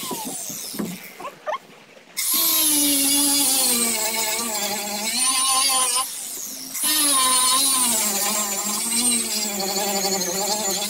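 Electric grinder grinding, its motor pitch wavering as the load changes. It winds down at the start and is off for about two seconds, then starts up again and runs, dropping off briefly about six seconds in.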